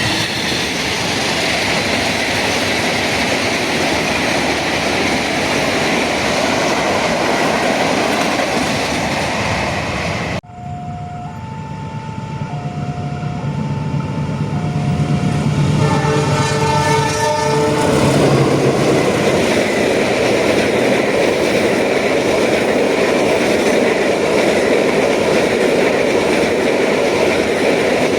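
A passing train's steady rumble and wheel noise, cut off suddenly about ten seconds in. Then an alternating two-note warning tone sounds for several seconds, followed by a train horn blowing a chord for about two seconds. A passing train's rumble builds again and carries on loud.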